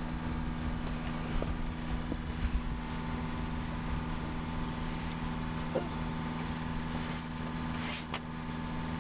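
A boat's inboard engine running steadily: a low, even drone with a constant hum. Two short, high beeps come near the end.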